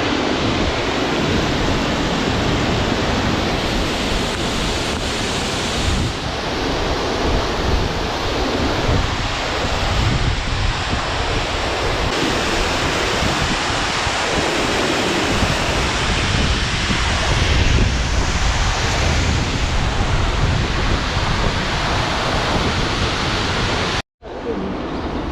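Steady loud roar of rushing water, with wind buffeting the microphone in gusts.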